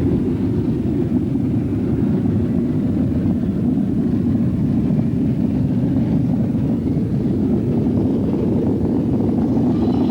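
Steam-hauled train running, heard as a steady low rumble without distinct exhaust beats.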